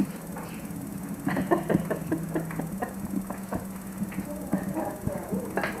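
Dishes and cutlery clattering as a table is cleared, a quick run of clinks and knocks over a steady low hum.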